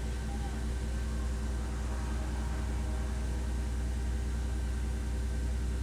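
Race car engine running steadily at an unchanging pitch, a low drone.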